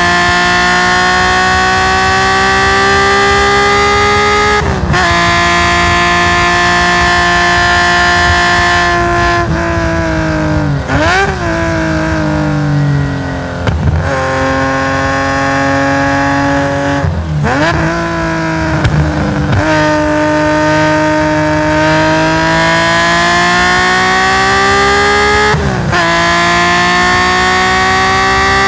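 Race-tuned Nissan S20 2.0-litre twin-cam straight-six of a Hakosuka Skyline GT-R, heard onboard at full throttle. It pulls hard up through the revs with a quick upshift through its sequential gearbox about 5 s in, then comes off the throttle with a string of blipped downshifts between about 10 and 20 s, and accelerates hard again with another upshift near the end.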